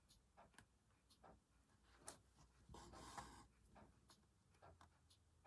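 Faint sounds of hand embroidery: soft scattered ticks of the needle and a brief, soft rasp of thread drawn through fabric about three seconds in.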